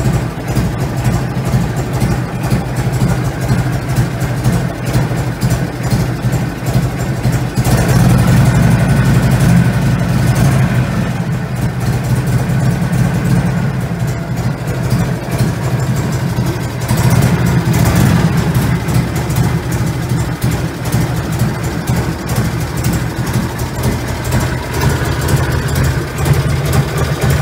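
Harley-Davidson Shovelhead 45-degree V-twin running on a full-transistor ignition switched to its fast (advanced) timing curve. It gets louder twice, around 8 and 17 seconds in, as it is revved.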